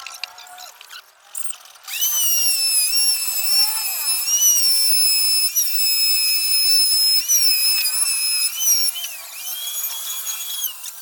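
Electric power tool's motor running with a steady high-pitched whine, starting about two seconds in; the pitch dips briefly a few times as it takes load. It stops near the end, runs again briefly, then stops.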